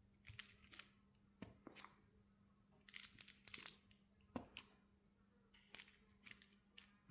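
Faint, scattered taps and crinkles of rubber stamps being inked and pressed onto strips of tape, over a faint steady hum.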